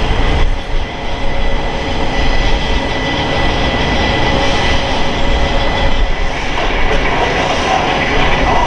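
Boeing F/A-18E/F Super Hornet jet engines running, a steady loud roar with a high thin whine over it.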